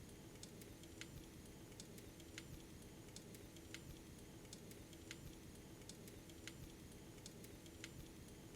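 Faint crackling of a fireplace fire: scattered sharp pops and snaps at an uneven pace over a steady low hum.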